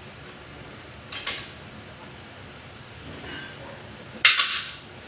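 Metal tools and parts clinking during rear axle bearing work: a light double clink about a second in, a faint one in the middle and a loud sharp clink near the end.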